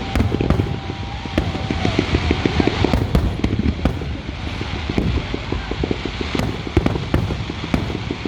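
Aerial fireworks going off in a dense, rapid run of deep booms and sharp bangs, with crackling between them.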